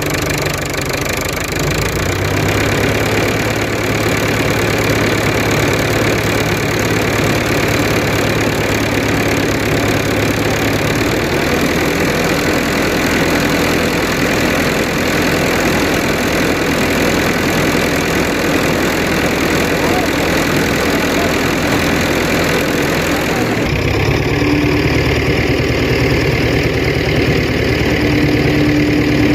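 Fordson Super Major tractor's four-cylinder diesel engine running steadily, its note shifting a couple of times, with an abrupt change in the sound near the end.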